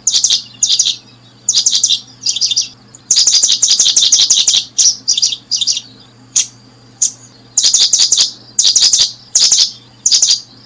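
Small birds chirping loudly in repeated bursts of rapid, high notes, each burst lasting from half a second to over a second with short pauses between, over a faint steady low hum.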